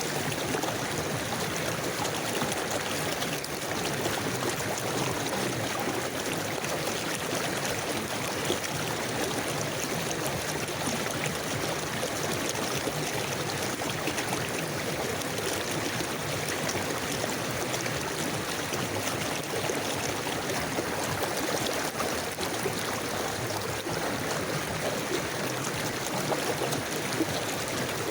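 A river or stream flowing steadily, water rushing and gurgling over rocks as a constant even wash.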